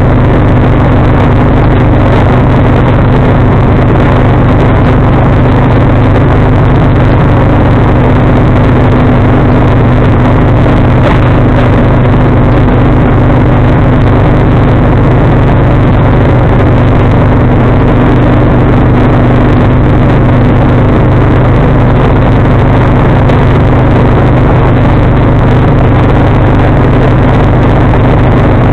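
John Deere 445 garden tractor's V-twin engine running loud and steady, driving its snowblower, with no change in speed.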